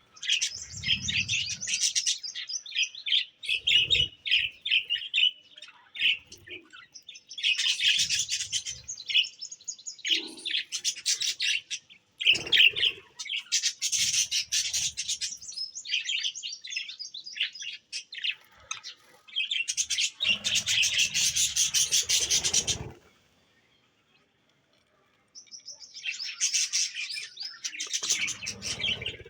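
Small birds chirping and twittering in quick, dense bursts, with a silence of about two seconds some four-fifths of the way through.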